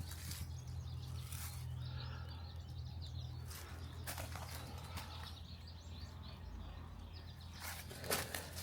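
Outdoor ambience: faint, quick bird chirps over a steady low rumble, with a few short rustles or steps.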